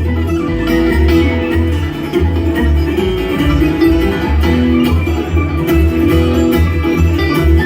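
Bluegrass band playing an instrumental passage: picked acoustic guitar over an even bass beat of about two pulses a second.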